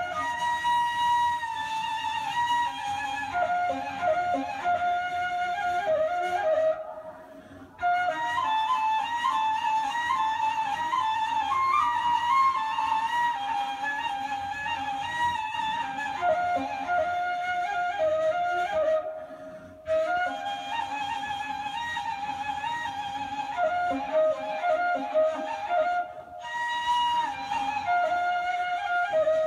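Dilsiz kaval, the Turkish end-blown rim flute without a fipple, playing a free improvised melody solo. There are three short breaks in the line, after about seven, nineteen and twenty-six seconds.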